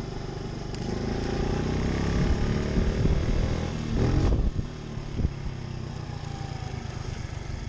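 Pit bike engine revving up under throttle, its pitch rising for about three seconds, then the throttle closes about four seconds in and it carries on at lower revs.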